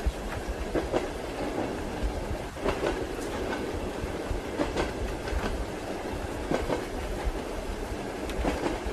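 Train wheels clacking over rail joints in pairs, about every two seconds, over the steady low rumble of a moving railway carriage.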